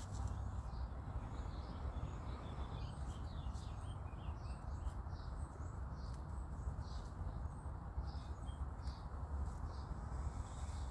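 Small birds chirping with many short, high calls scattered through, over a steady low background rumble.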